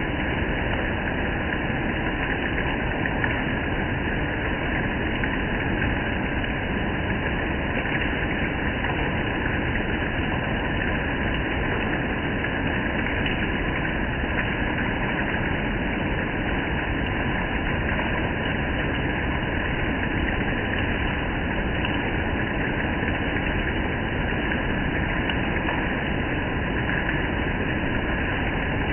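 Steady rain falling on gravel and foliage, an even unbroken hiss.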